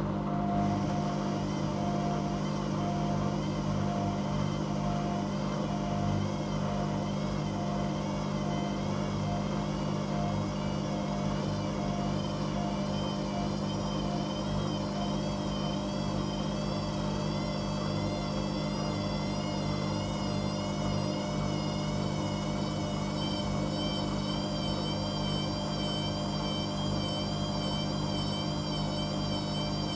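Washing machine running, a steady motor hum with a higher whine that wavers up and down about once a second.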